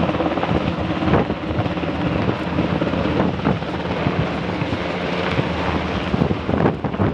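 UH-60 Black Hawk helicopter running steadily overhead, its rotor and turbine noise mixed with wind buffeting the microphone.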